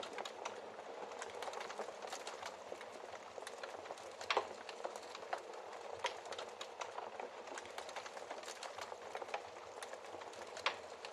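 Wood fire in a fireplace crackling: a steady soft hiss with many small pops and snaps, a louder pop about four seconds in and another near the end.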